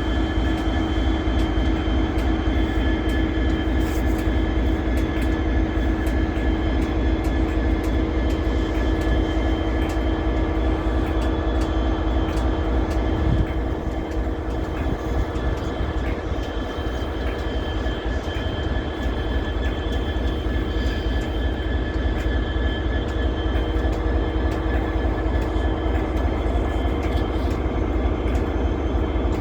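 Class 66 diesel-electric locomotive's two-stroke V12 engine running steadily, a deep drone with steady whining tones above it. The sound eases slightly about halfway through.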